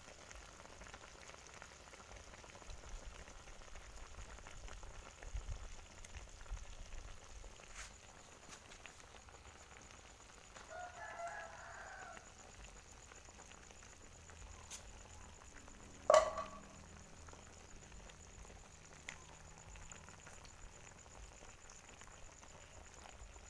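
Faint steady sizzling from a wok of chicken offal and feet simmering with coconut milk. A chicken calls in the background about halfway through, and a short, louder sharp sound comes a few seconds later.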